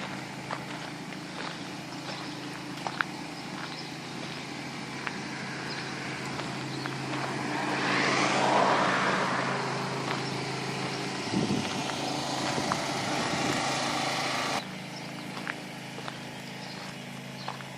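A motor vehicle passes, swelling to its loudest about halfway through and then fading, over a steady engine hum. Light clicks are scattered throughout, and the background noise drops suddenly about three seconds before the end.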